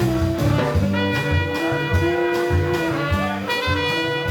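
Live jazz band playing: a horn holds one long note from about a second in until near the end, over moving bass notes and a steady drum beat.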